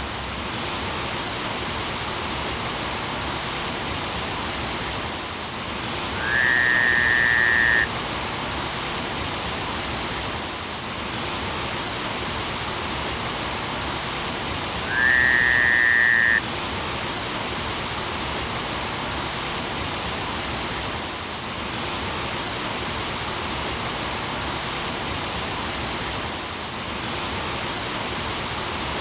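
Steady rushing hiss of a waterfall. Twice, about six and fifteen seconds in, a louder whistle-like tone rises briefly and then holds for about a second and a half over the water.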